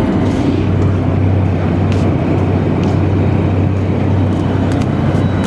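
Tugboat machinery running with a steady low drone and a constant hum.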